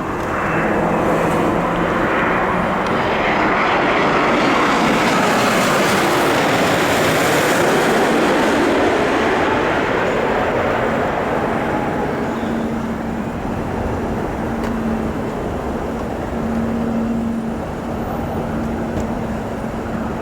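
Jet airliner passing close by: its engine noise builds over the first few seconds, is loudest around five to nine seconds in with a slowly sliding pitch, then eases off.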